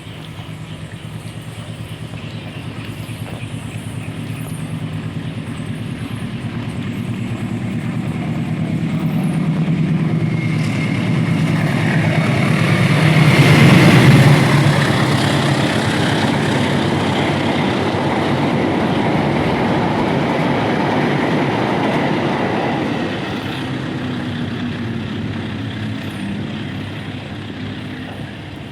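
A locomotive-hauled train passing: the locomotive's engine hum builds to its loudest about halfway through as it goes by, then the carriages keep running past for several seconds before the sound fades.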